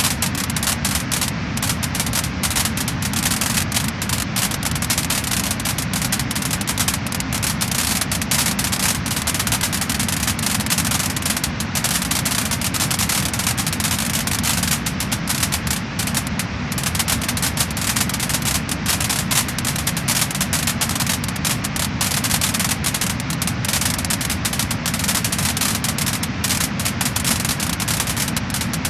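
Wood fire crackling and popping: a dense, continuous run of small sharp cracks over a steady hiss, at an even level throughout.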